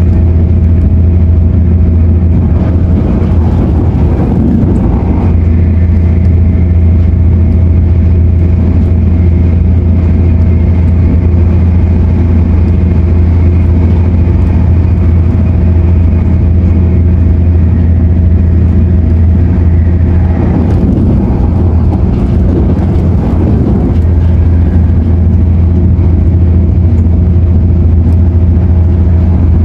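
Cabin noise inside a CAF-built MTR Airport Express train on the move: a loud, steady low rumble under a steady hum. A thin high whine comes in about five seconds in and fades out about twenty seconds in.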